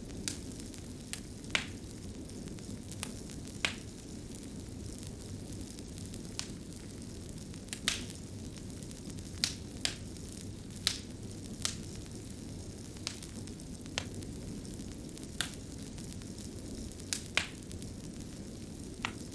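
Wood fire burning with a steady low rush, and sharp crackles and pops going off at irregular intervals, roughly one a second.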